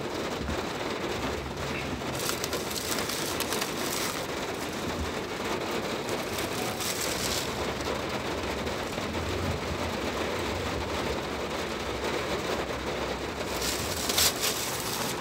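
Rain falling on a car's roof and windscreen, heard from inside the cabin as a steady hiss.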